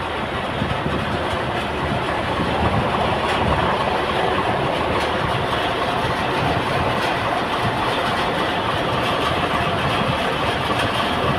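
Heavy diesel engine running steadily, a dense mechanical drone that grows a little louder about two seconds in.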